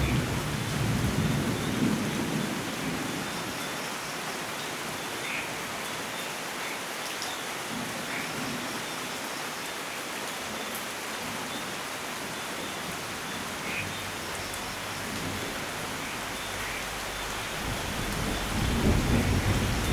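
Steady rainfall in a thunderstorm. A roll of thunder rumbles away during the first few seconds, and another builds up near the end, with faint scattered chirps over the rain.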